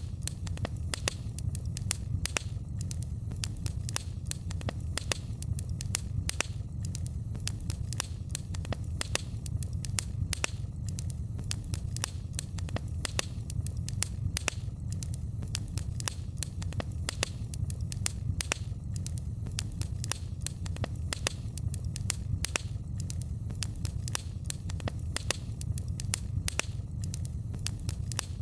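Wood fire crackling in a fireplace: many sharp, irregular pops and snaps, several a second, over a steady low rumble.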